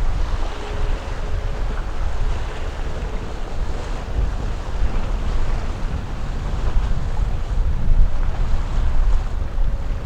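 Wind buffeting the microphone: a gusty, uneven low rumble with a steady hiss above it.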